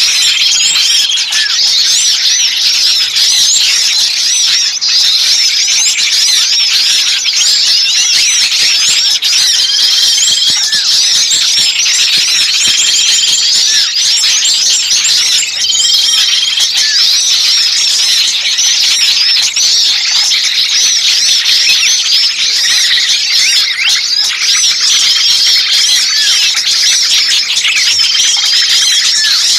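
A dense, unbroken chorus of many small birds chirping and calling noisily, a bird-lure recording of agitated, screaming small birds made to draw other birds in. A short, level high whistle recurs about every three seconds over the chatter.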